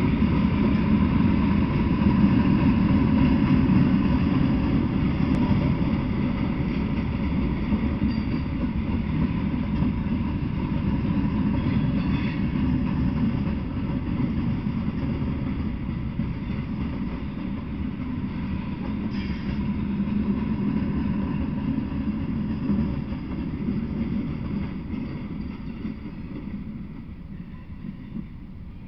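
Freight train of open-top freight cars rolling past, a steady low rumble of steel wheels on rail. It fades away near the end as the last cars clear.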